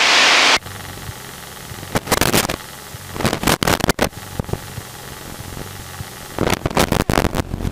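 Static-like hiss of cabin noise on a light aircraft's headset intercom that cuts off sharply about half a second in, leaving a lower steady drone broken by short crackles and clicks that grow denser near the end.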